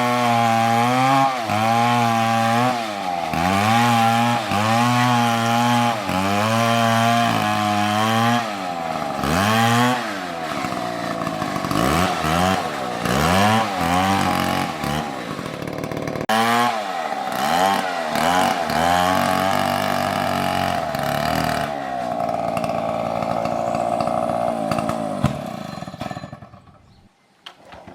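Two-stroke chainsaw cutting a tree: its engine pitch dips and recovers again and again as the chain bites into the wood, with several revs down and back up. Near the end it runs at a steady pitch, then cuts out about a second before the end.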